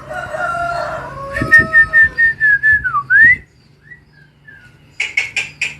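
Javan myna (jalak kebo) whistling: a held, wavering whistle that dips and then slides quickly upward about three seconds in. A few faint chirps follow, then a burst of harsh, chattering calls near the end.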